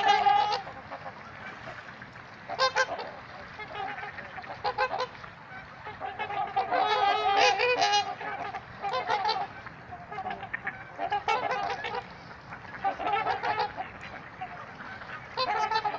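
Trumpeter swans honking, a series of short nasal calls in bouts with brief gaps, busiest a few seconds in.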